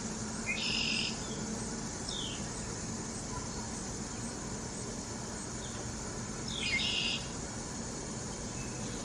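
Bird calls: two harsh calls of about half a second each, one just after the start and one about seven seconds in, with two short down-slurred notes between them. Behind them is a steady, high-pitched drone of insects.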